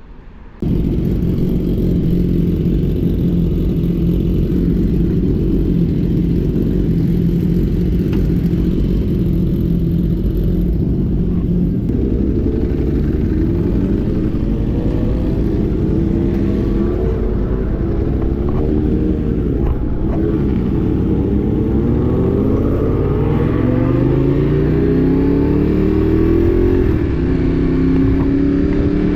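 1000 cc motorcycle engine running on the move, steady at first. From about twelve seconds in it revs up and drops back repeatedly as it climbs through the gears, with low wind rumble on the microphone.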